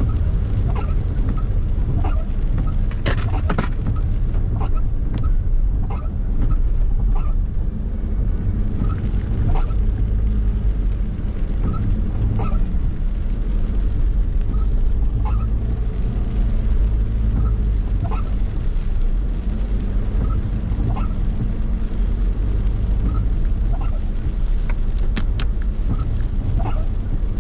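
Steady low rumble of a vehicle driving through traffic in the rain, with road and engine noise. A faint short squeak repeats about every second and a half.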